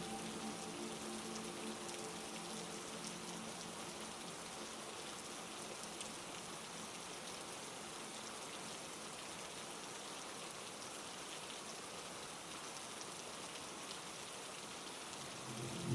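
Steady heavy rain, an even hiss of drops on surfaces. A soft musical drone fades out in the first few seconds, and a louder low musical tone swells in just before the end.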